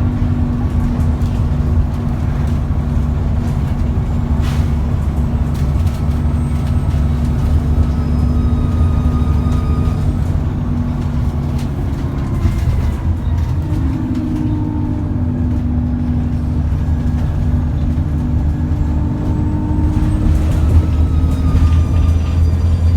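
Cummins ISBe 6.7-litre diesel engine of an ADL Enviro400 double-decker bus running under way, a steady drone with a faint high turbo whine above it. About halfway through the engine note dips and shifts, then settles again.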